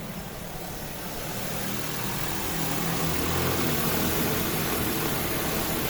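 DJI Agras T50 agricultural spraying drone's rotors droning as it flies closer, growing steadily louder.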